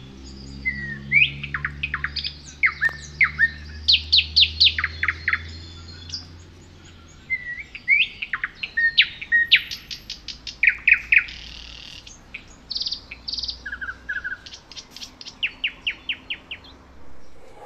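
A songbird singing: phrases of quick chirps, rapid repeated notes and short whistled sweeps, broken by brief pauses. A low hum runs underneath and fades out about seven seconds in.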